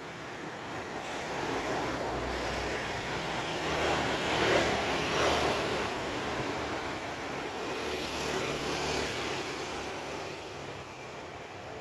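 Engine noise from something passing. It swells to its loudest about four to five seconds in and dies away, with a smaller swell near eight seconds.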